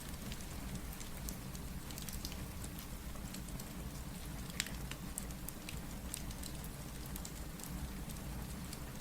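Steady rain with scattered sharp crackles and pops from a wood fire in a fireplace, over a low steady rumble.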